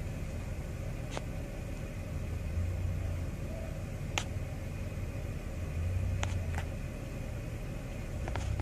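A vehicle engine running with a low, steady rumble that swells briefly twice, with a few faint sharp clicks.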